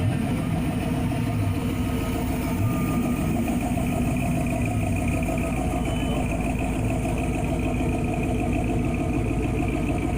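An engine idling steadily, a continuous low rumble with a held hum that neither rises nor falls.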